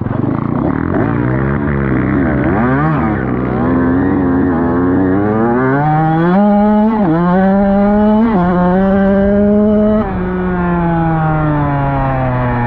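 Dirt bike engine accelerating through the gears: the pitch climbs, dips sharply at two upshifts about seven and eight seconds in, then falls steadily as the throttle is rolled off and the bike slows near the end.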